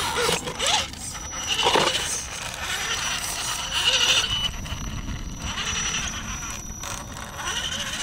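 Radio-controlled rock crawler working over rock: its electric motor whines up in short rising bursts while the tyres and chassis scrape and clatter on the stone.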